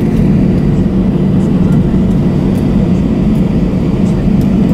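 Airbus A321-232 cabin noise from its IAE V2500 engines: a steady low rumble with a faint high whine.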